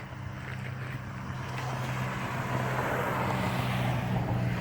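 A road vehicle passing, its tyre and road noise on wet pavement swelling to a peak and starting to fade near the end, over a steady low hum.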